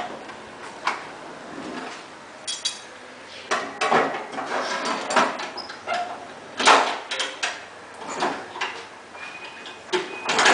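Irregular clanks and knocks of metal parts being handled, a few seconds apart, with no engine running yet. Several sharp knocks come in the middle, the loudest about two-thirds of the way in.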